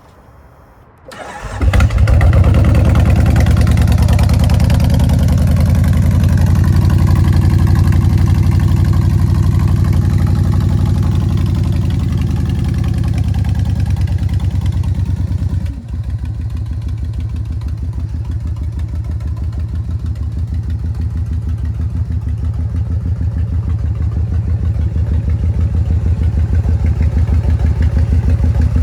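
Cold start of a 2007 Kawasaki Vulcan 2000's 2,053 cc fuel-injected V-twin: a brief crank about a second in, then it catches and runs loud at a raised idle. About halfway through the revs drop suddenly to a lower, steady idle.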